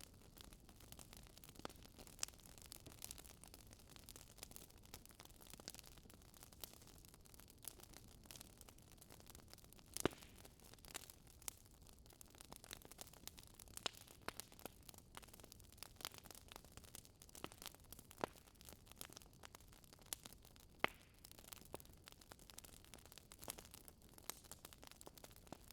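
Fire crackling in a fireplace: faint, irregular small pops and snaps over a soft hiss, with a few sharper pops, the loudest about ten seconds in and another a little past twenty seconds.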